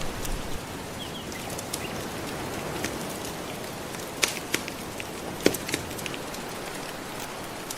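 Wood fire crackling, with scattered sharp pops (the loudest about four and five and a half seconds in), over a steady wash of gentle ocean waves.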